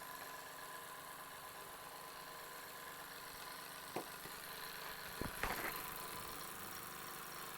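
Jensen toy steam engine running steadily: a faint, even hum with a few light clicks and knocks about four seconds in and just after five seconds.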